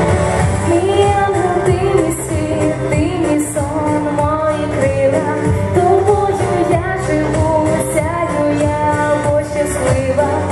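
A woman singing a pop song over instrumental accompaniment.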